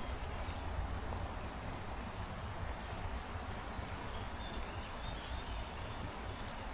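Steady hiss of heavy rain, with wind rumbling on the microphone.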